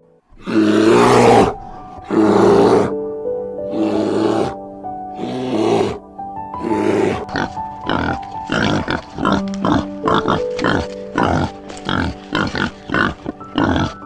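Animal growls over piano music: about five long, breathy growls a second and a half apart, then wild boar grunting in quick short grunts, about two a second.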